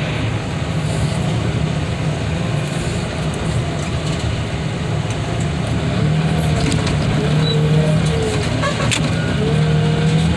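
Vehicle engine running steadily, its pitch swelling up and down twice in the second half.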